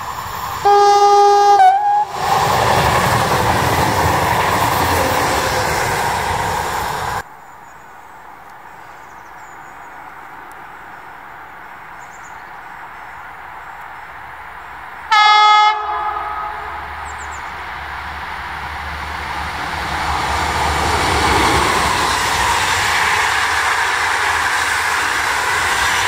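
Two trains each sound one horn blast on approach, the Rp1 "attention" warning signal: the first, about a second in, is a single held tone that dips in pitch as it ends, followed by the rumble and rail noise of an electric passenger train passing until the sound cuts off. About halfway through a second, shorter horn blast is followed by steadily rising wheel and rail noise as a PKP Intercity train's coaches roll past.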